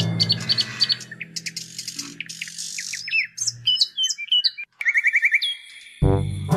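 Birds chirping, a series of short, high, downward-gliding chirps with a quick trill near the middle. Music fades out at the start and comes back in near the end.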